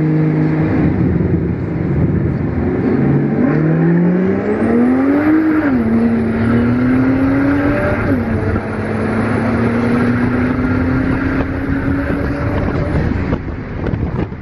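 Car engine accelerating hard on a race track. Its pitch climbs, drops sharply at two gear changes, then keeps climbing slowly in the higher gear, with a thin high whine above it through most of the run.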